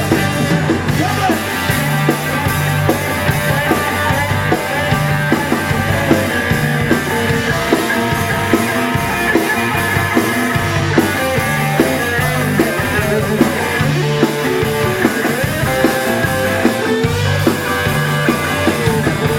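Live rock and roll band playing an instrumental passage with guitar, bass and drums, after a count-in.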